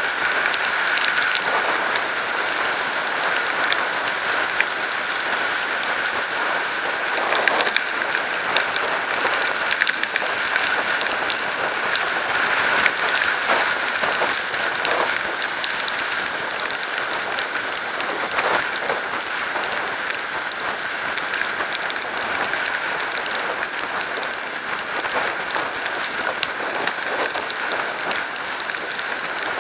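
Rain drops and road spray hitting the camera housing while riding at speed, a dense, steady crackle of many small impacts.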